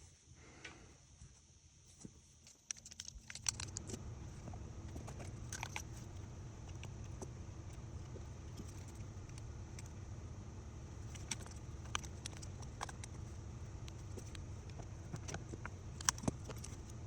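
Scattered light clicks and clinks of small hard objects being handled, over a steady low hum that comes in a few seconds in.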